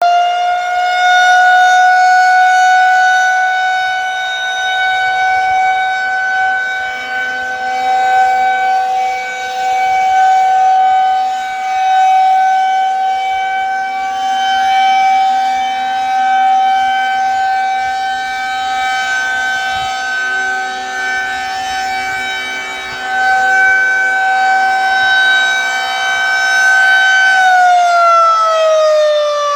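Federal Signal 2001-130 rotating outdoor warning siren sounding a steady alert tone for a tornado drill, growing louder and softer as it rotates. Near the end it begins to wind down, its pitch falling.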